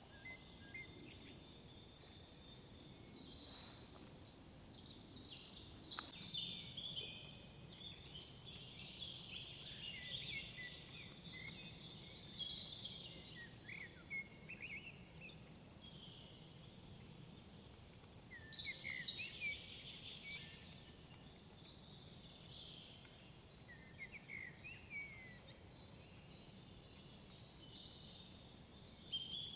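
Songbirds singing in woodland: short phrases of quick trills and falling notes every few seconds, with a thin high song above, over a faint steady low background hum.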